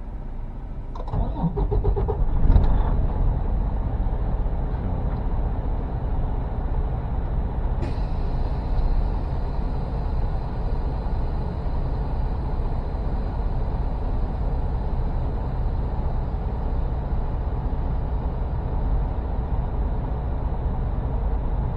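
Semi-truck diesel engine running steadily, heard from inside the cab, with a few short knocks about one to three seconds in.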